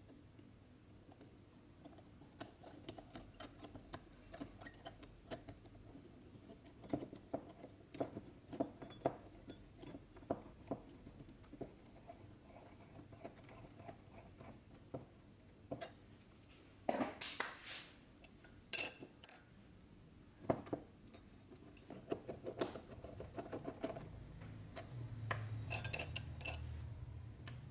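Small metal carburetor parts clinking and tapping against each other and a hard surface as they are handled, in many separate light clicks. About a second of noisy hiss comes around the middle, and a low rumble rises near the end.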